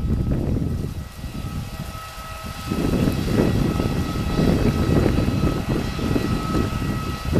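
Airbus A319 jet engines running, a steady high turbine whine over a low rumble, which eases for a couple of seconds about a second in and then comes back.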